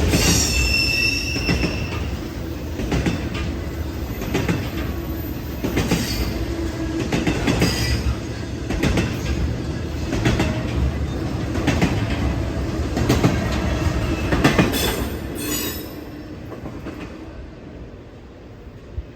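Freight train cars rolling past, wheels clacking over rail joints over a steady rumble, with brief high wheel squeals about a second in. The sound fades near the end.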